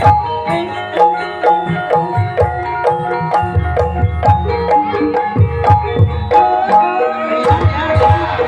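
Gamelan music accompanying an ebeg dance: kendang hand-drum strokes under mallet-struck melodic instruments playing an even run of notes.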